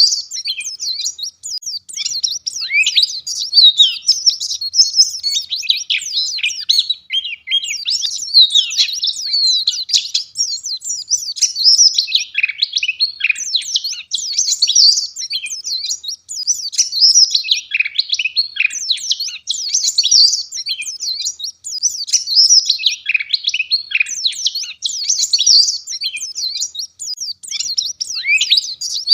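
White-eye (pleci, Zosterops) singing in full, vigorous song: a dense, fast run of high, sharp chirps and twittering trills, broken by short pauses every couple of seconds.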